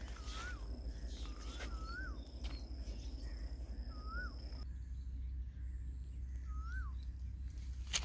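A bird repeats a short whistled note that rises and falls, about once every second or two, over a steady low rumble.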